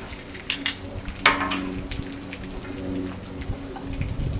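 Chicken strips sizzling and crackling in hot oil on a Blackstone flat-top griddle, with one sharp metal clack of the tongs about a second in.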